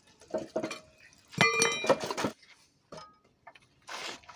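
Metal tools and engine parts clinking and knocking against each other, with one louder clink about a second and a half in that rings briefly with a clear metallic tone.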